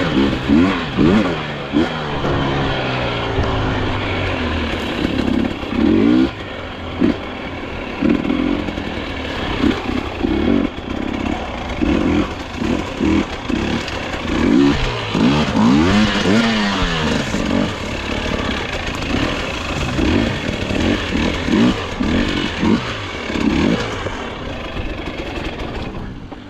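Dirt bike engine revving up and down over and over in short bursts as it is ridden on a rough enduro trail.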